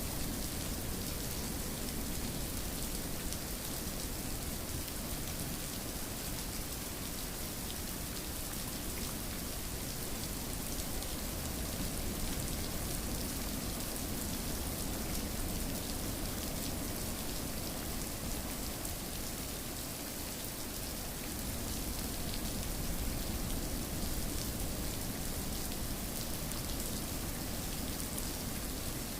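Steady rain falling on a surface, an even rushing hiss with dense individual drops.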